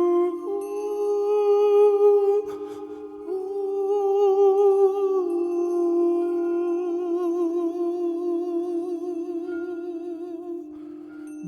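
Several layered human voices humming long held notes with slow vibrato, in the manner of sound-healing vocal toning. The notes shift to new pitches every few seconds, with a brief click about two and a half seconds in.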